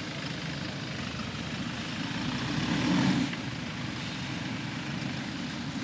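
An off-road jeep's engine running steadily, swelling louder for about a second around two to three seconds in.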